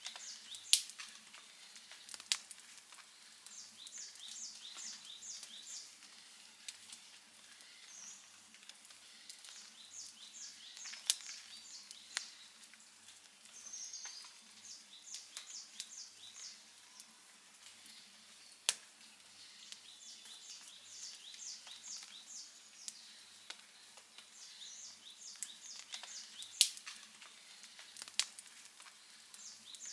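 Outdoor wood campfire burning with a soft steady crackle and a handful of sharp pops. Runs of five or six short high chirps repeat every few seconds behind it.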